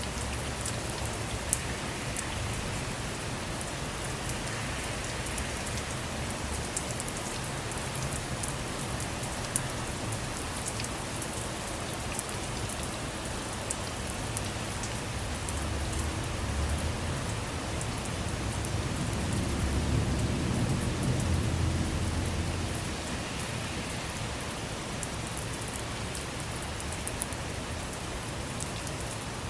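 Steady rain, with sharp ticks of single drops throughout. A low rumble of thunder swells from about halfway, peaks around two-thirds through and fades.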